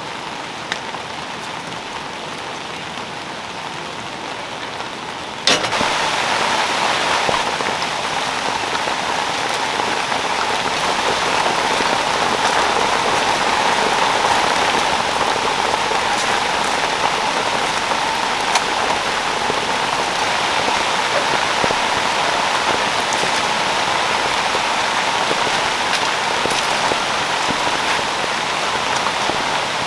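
Heavy rain pouring down steadily. It becomes suddenly louder about five seconds in.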